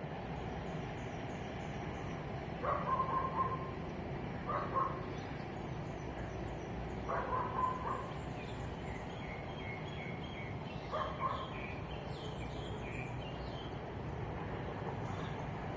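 Birds chirping over a steady low hum of distant traffic, with a louder short call repeated four times.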